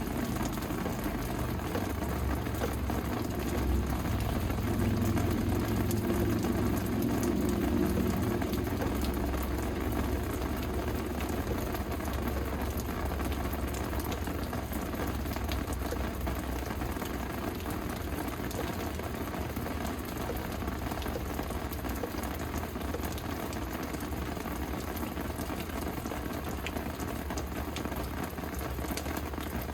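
Steady rain falling, an even hiss of drops. A low rumble swells and fades over the first ten seconds or so.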